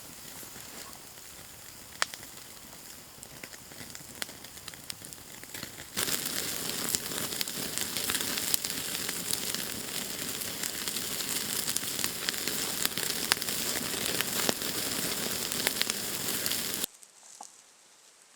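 Food sizzling and frying in a pan, with sharp pops and crackles through a steady hiss. It gets louder about six seconds in and cuts off abruptly near the end.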